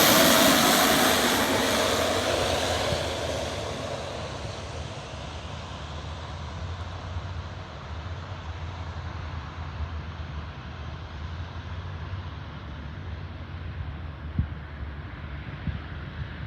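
Propeller airplane engine fading into the distance after a close pass, its high end dying away over the first few seconds; after that a low steady hum is left, with a single faint click near the end.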